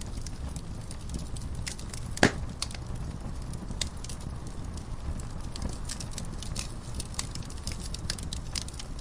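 Wood fire crackling in a fireplace: a steady low rumble of flame under frequent sharp pops and snaps. One loud pop stands out about two seconds in.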